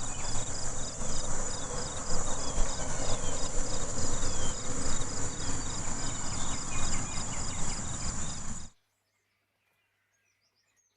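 Insects shrilling in a steady high drone, with a regular pulsed chirping, over a loud, uneven rushing noise. The sound cuts off suddenly about nine seconds in; faint chirps follow near the end.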